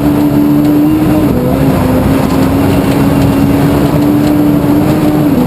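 Rally car's 1400 cc class engine running hard at high revs, its note dipping sharply twice, about a second in and near the end, as the driver changes gear or lifts.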